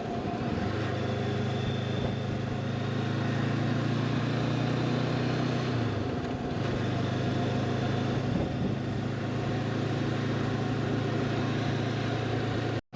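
Honda CB500X parallel-twin engine running at a steady cruise, with wind and road noise. The engine note eases briefly around the middle, then settles again.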